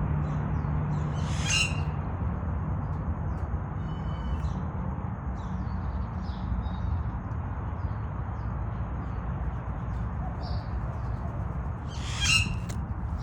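Two harsh, loud bird calls, one about a second and a half in and one near the end, with a few small chirps between, over a steady low outdoor rumble.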